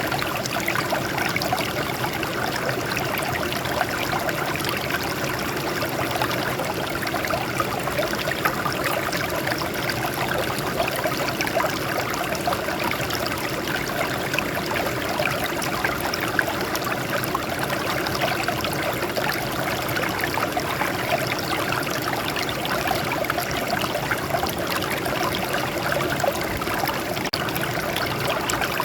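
Water running and trickling over rocks in a steady stream, a constant splashing rush with no breaks.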